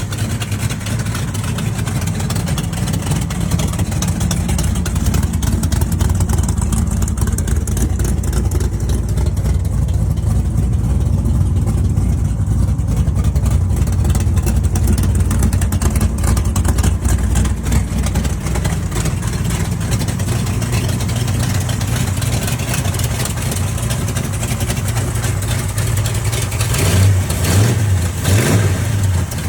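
Big-block 440 V8 in a 1973 Plymouth Scamp street/strip car running at a steady idle, then revved up briefly near the end.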